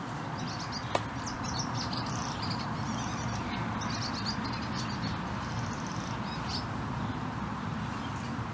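Birds chirping in a quick run of short high phrases over a steady outdoor background hiss and rumble, with one sharp click about a second in.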